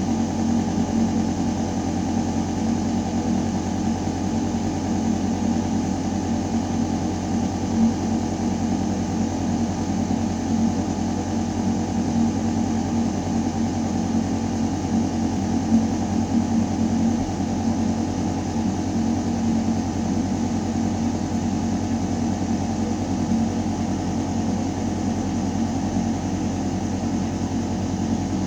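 Ventilation system running steadily: a deep mechanical hum with air rushing through metal ductwork.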